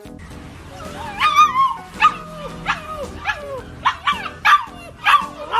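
A puppy yipping: a string of short, high-pitched yips, about two a second, starting about a second in.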